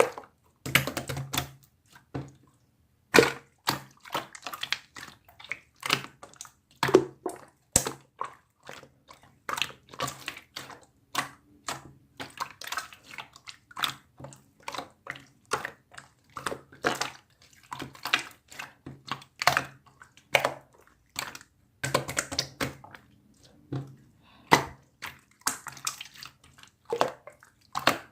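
Rapid, irregular short clicks and taps, several a second, with no pause for long.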